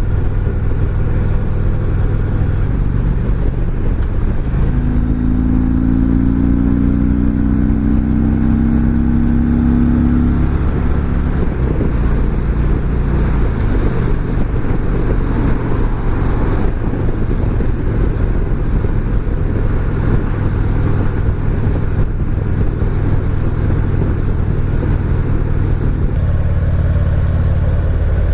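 Motorcycle engine running steadily with road noise, as heard from the rider's own bike. A slowly rising whine comes in about five seconds in and fades out about ten seconds in.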